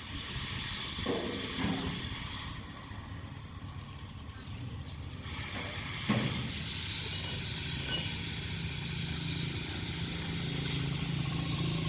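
Oxy-acetylene cutting torch hissing steadily as it cuts steel chassis. About six seconds in it grows louder and a low steady hum joins it.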